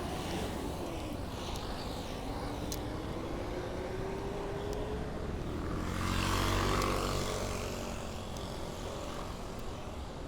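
Wind and street traffic noise while riding a bicycle on a city street. A motor vehicle passes close, loudest about six to seven seconds in. Earlier, a tone slowly rises in pitch.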